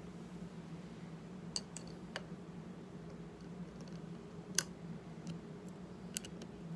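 A few light, sharp clicks and taps, scattered and irregular, the loudest about four and a half seconds in, over a low steady hum.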